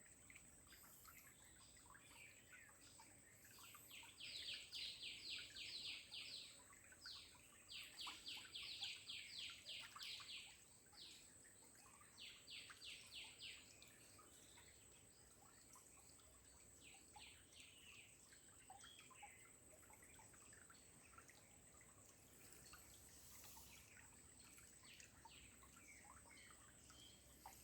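A bird singing faint trills of rapidly repeated notes, about five a second, in three bursts of two to three seconds each in the first half, with softer scattered notes after.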